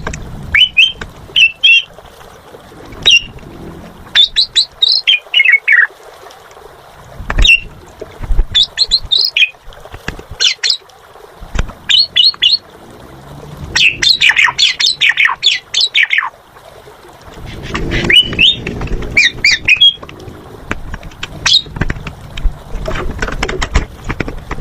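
Asian pied starling (jalak suren) singing actively in repeated bursts of short, rapid notes, some sliding down in pitch, with brief pauses between phrases.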